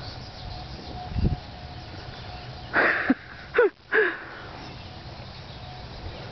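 Parrots in an aviary making three short squawks in quick succession, about three to four seconds in, two of them dropping in pitch, after a soft low thud about a second in.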